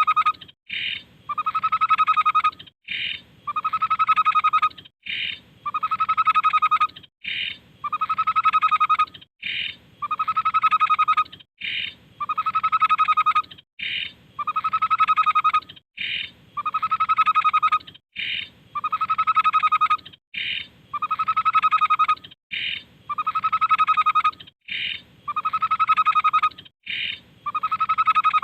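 Tepus (babbler) call played as a repeating loop for bird training, about once every two seconds: a short higher note followed by a longer, lower, rapid trill.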